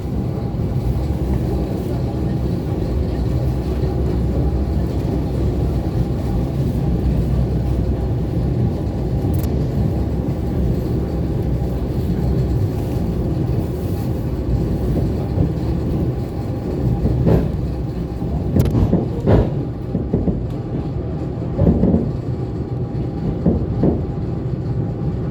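ET2 electric multiple unit running between stations: a steady rumble of wheels on rails with a faint steady whine. Several short louder knocks come in the second half.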